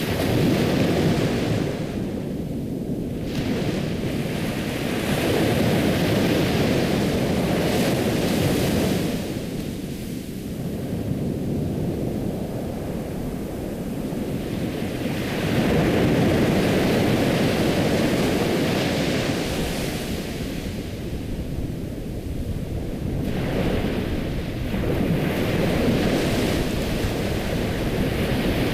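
Ocean waves washing in and drawing back, a continuous surf rush that swells and ebbs about four times.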